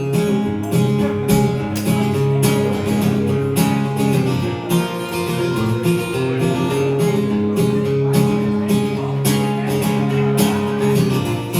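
Instrumental break in a live country song: strummed guitar chords with a steady rhythm, no singing.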